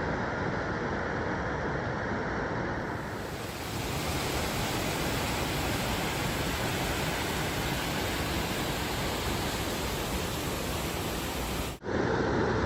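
Steady rushing water: a continuous hiss with no distinct events. It changes slightly about three seconds in and cuts out briefly near the end.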